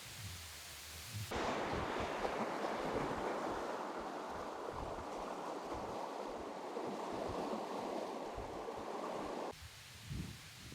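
Steady rushing of wind and waves on an open shore, cutting in suddenly about a second in and cutting out near the end.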